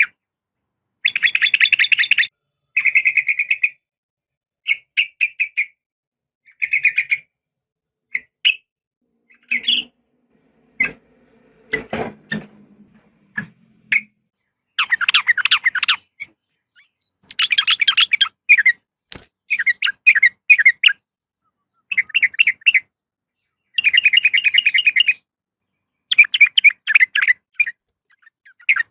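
Yellow-vented bulbul (trucukan) calling in short bursts of quick chattering notes, each burst under a second or so, with pauses between; presented as a female's call to draw a male. A few faint knocks and clicks come near the middle.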